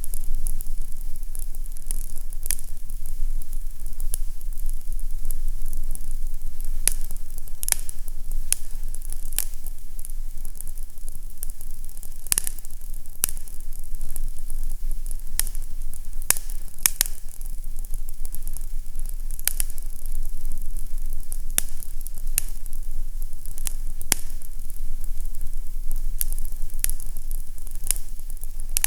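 Wood fire crackling in a fireplace: irregular sharp pops and snaps, a few seconds apart and sometimes in quick pairs, over a steady hiss and a low rumble.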